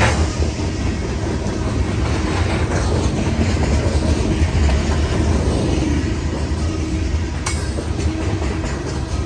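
Steel coal hopper cars of a freight train rolling past close by: a steady rumble of wheels on rail, with one sharp click about seven and a half seconds in.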